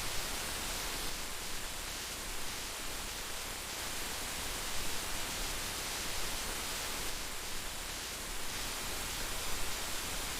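Heavy rain falling steadily, an even hiss of dense raindrops with small irregular surges in loudness.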